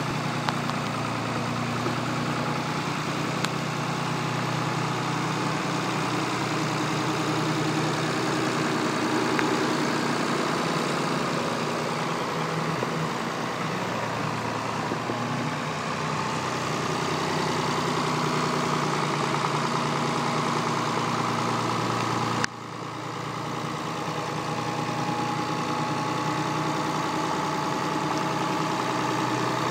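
Tractor engine running steadily at a low, even speed, with a brief sudden drop in level about three quarters of the way through.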